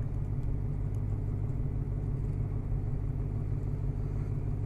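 Supercharged 6.2-litre HEMI V8 of a 2015 Dodge Challenger SRT Hellcat idling steadily, a low even rumble heard from inside the cabin.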